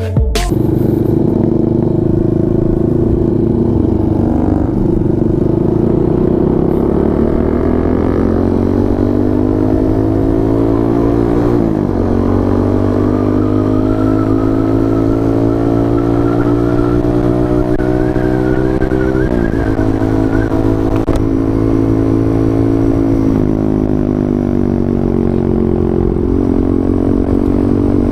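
Benelli 150S motorcycle engine under way, its revs climbing slowly and dropping sharply at each upshift, about three times.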